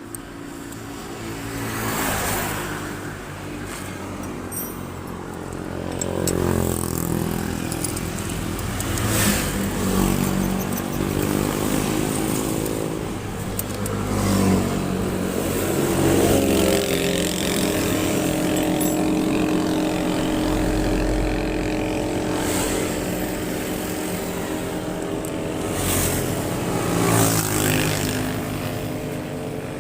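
Motor vehicle engines, motorcycles among them, running and passing by on a road, with engine pitch rising and falling and several louder pass-bys.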